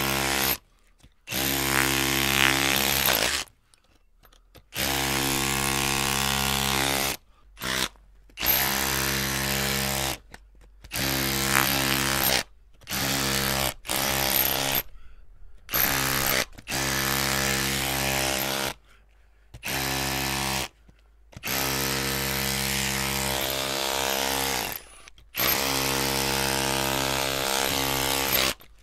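Electric drill motor running in repeated bursts of one to a few seconds, a steady hum that stops and starts about a dozen times with short silent gaps between.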